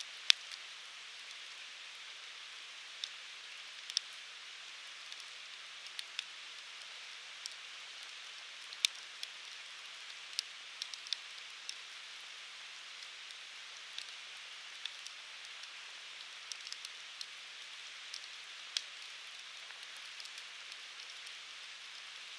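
Firewood burning in an open fire: a steady soft hiss with irregular sharp crackles and pops, the loudest one just after the start.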